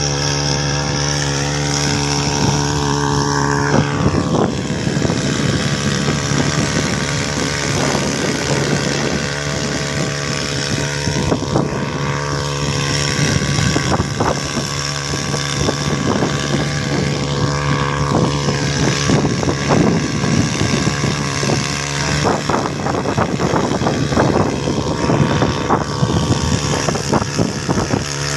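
Small second-hand 3 hp boat engine running steadily at a constant speed, with crackly noise over the engine note from about four seconds in.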